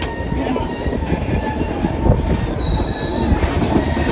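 A steady heavy rumble with thin, high-pitched squealing tones held over it and scattered clicks, like metal grinding on metal.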